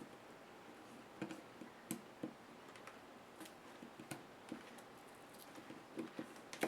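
Scattered, irregular small clicks and taps of plastic and metal laptop parts being handled and pried during disassembly, the sharpest click near the end.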